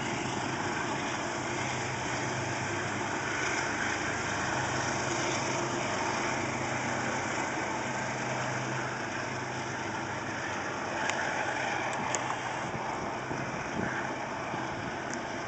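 Metro-North diesel commuter train running with a steady engine hum, headed by a P32AC-DM locomotive, with a few short clicks about two-thirds of the way through.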